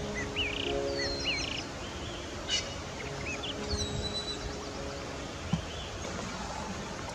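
Small birds calling with short whistled chirps and a brief trill during the first four seconds, over soft background music of held notes.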